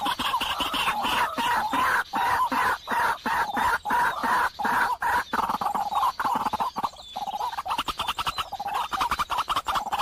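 Birds calling: a fast, continuous chatter of short repeated notes, dipping briefly about seven seconds in.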